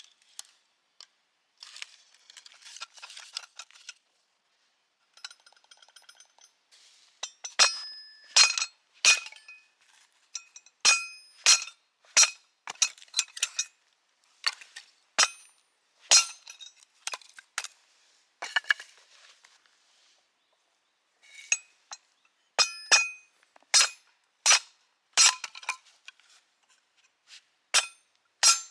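Hammer blows splitting firewood on a steel wood-splitter blade: about two dozen sharp, metallic clinks that ring briefly, in uneven runs with a short pause in the middle. Quieter handling and rustling come before the first blow.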